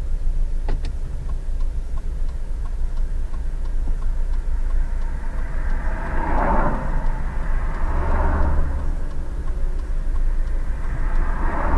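Steady low rumble of a car driving on the road, with louder swells about halfway through and again near the end.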